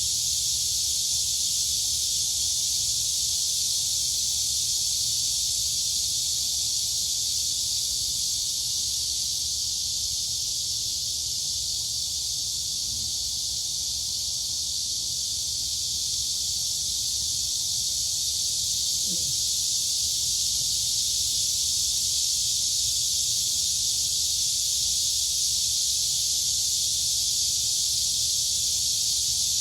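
Dense, steady night chorus of crickets and cicadas: a continuous high-pitched shrill buzz that never breaks.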